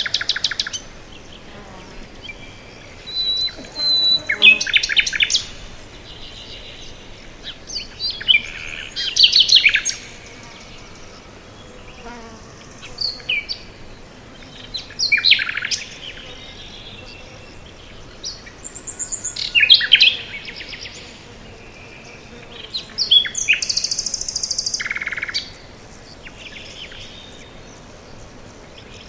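Songbirds singing: short phrases of rapid chirps and trills repeat every few seconds over a faint steady background hiss.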